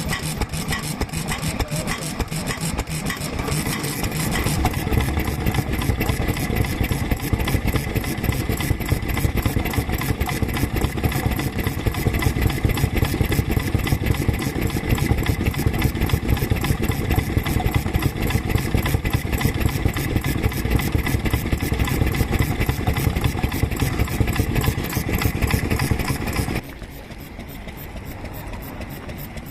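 Vintage stationary engine running steadily with a rapid, even firing beat. It grows louder about four seconds in and drops off sharply near the end.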